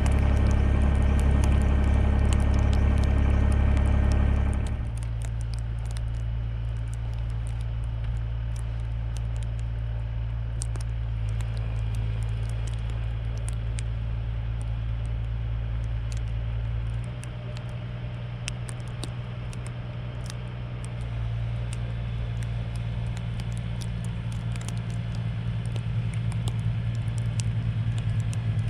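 A vehicle engine running steadily. It is louder and fuller for the first five seconds, then suddenly drops to a lower, steadier hum that shifts slightly about two-thirds of the way in and rises a little near the end.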